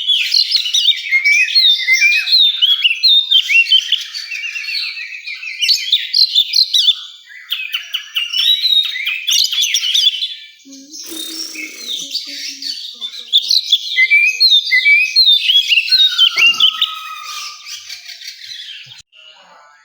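Oriental magpie-robin (kacer) singing a fast, varied stream of chirps, trills and whistles, with a short break about halfway through and tailing off near the end.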